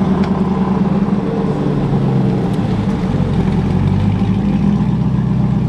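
Chevrolet Corvette C8's V8 running as the car rolls slowly past at low speed: a steady low engine drone with slight swells.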